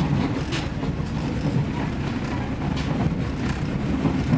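Diesel railcar running along the track: a steady low rumble with a few sharp clacks of the wheels over rail joints.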